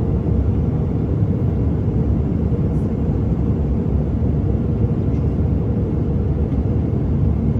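Airliner cabin noise: a steady low rumble of engines and airflow heard from inside the passenger cabin.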